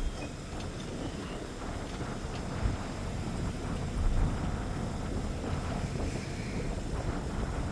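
Wind buffeting the microphone with a steady low rumble.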